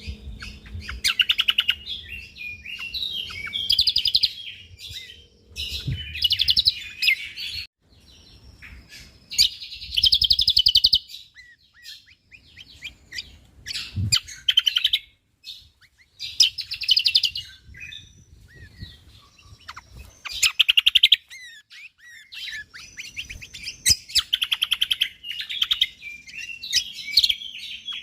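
Cucak kombo (kecial kombo) songbird singing in repeated bursts of fast, tightly packed chirps and trills, each phrase a second or two long with short pauses between.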